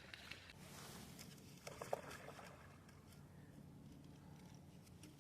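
Near silence: faint outdoor background hum with a few faint ticks about two seconds in.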